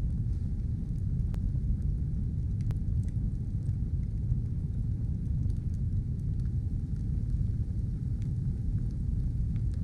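Stove fire burning: a steady low roar with a few faint crackles and pops.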